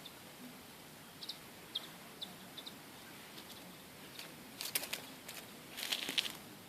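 Kittens scrabbling and rustling about, a few faint light ticks followed by two short bursts of scratching and clicking, the second near the end.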